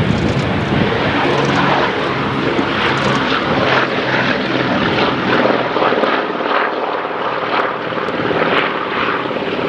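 Propeller-driven piston-engine warbird aircraft flying overhead, a loud, steady engine drone whose low hum fades out about halfway through.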